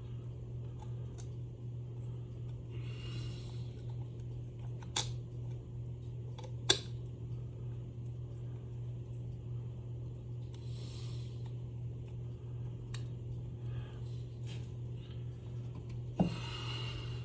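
Handwork on a small motor assembly: scattered sharp clicks and taps of small parts and screws being fitted, with short rustles, over a steady low hum. The loudest click comes about seven seconds in.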